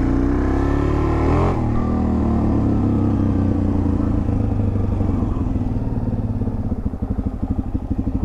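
Suzuki DR-Z400's single-cylinder four-stroke engine under way: it rises in pitch, drops sharply about a second and a half in as if on a gear change, then runs steadily. Near the end it slows into a lumpy, pulsing beat as the throttle eases off.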